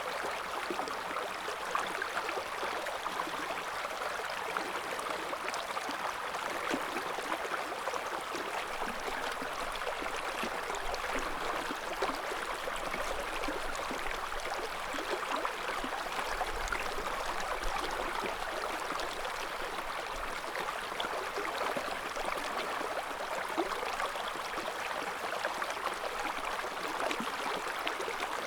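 A clear river flowing over stones: a steady babble of running water with many small splashes and gurgles.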